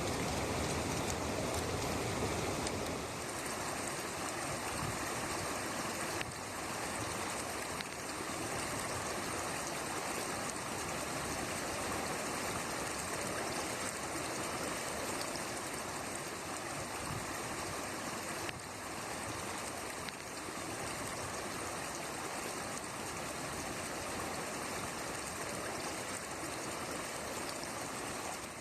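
Floodwater rushing steadily down a creek bed that is usually dry: the creek in flood.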